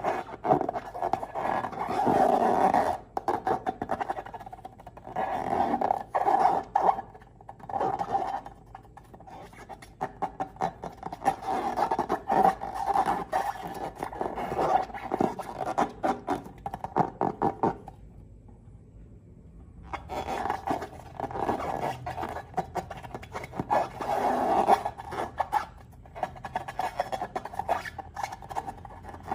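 Slime being squeezed and stretched by hand: sticky crackling and squishing in bursts, with a pause of about two seconds about two-thirds of the way through.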